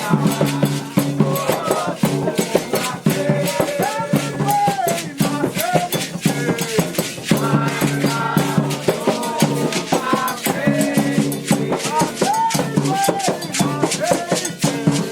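Candomblé ritual music: hand drums, shaker rattles and a struck metal bell keep a fast, dense rhythm under a group of voices singing a Yoruba chant.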